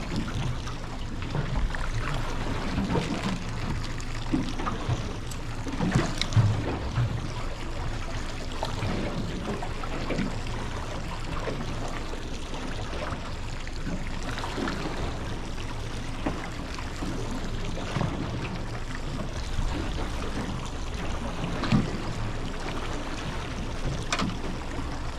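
Small fishing boat's motor running slowly as the boat creeps forward, with water noise and a few short knocks on the hull.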